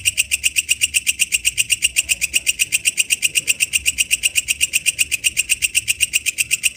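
Walang kecek insect calling: a fast, even train of sharp, high-pitched clicks, about nine a second, keeping a steady beat.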